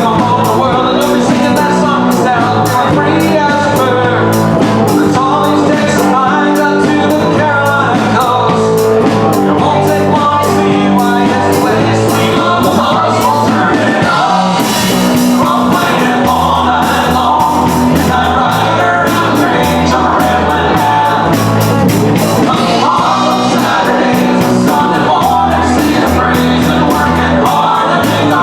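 Live country-rock band playing a song with a lead singer over a steady drumbeat and bass.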